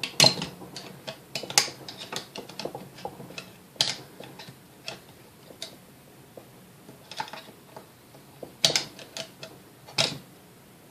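Irregular clicks and knocks of small metal parts and hand tools being handled during mixer repair, a few sharper knocks among lighter ticks.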